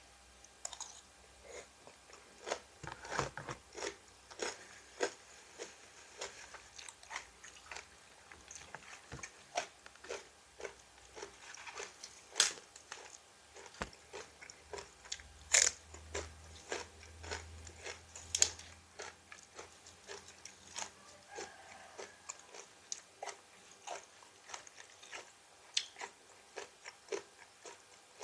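A person chewing and biting through crisp raw vegetables, with irregular crunches throughout and a few louder crunching bites in the middle.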